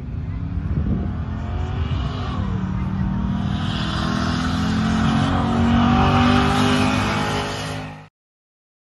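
Car engine accelerating hard, its note climbing steadily and growing louder over several seconds. The sound cuts off suddenly near the end.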